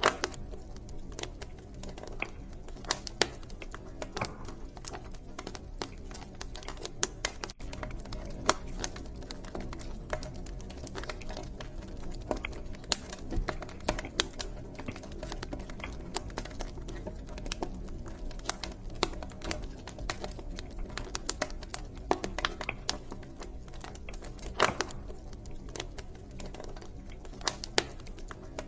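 Wood fire crackling in a fireplace: frequent sharp pops and snaps at irregular intervals over a low, steady rumble of the burning fire.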